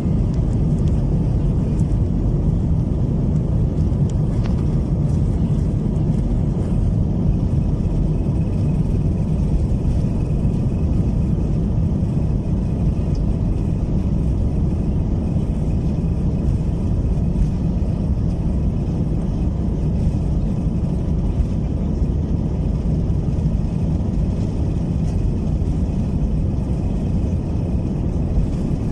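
Airbus A321-200 cabin noise heard from a passenger seat: a steady low rumble of the jet engines and airflow.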